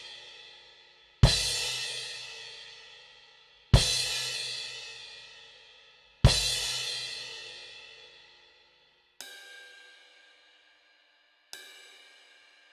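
Istanbul Mehmet IMC Brilliant cymbals struck one at a time and left to ring out. Three loud strikes come about two and a half seconds apart, each ringing down slowly. Then two softer, more bell-like strikes of another cymbal follow near the end.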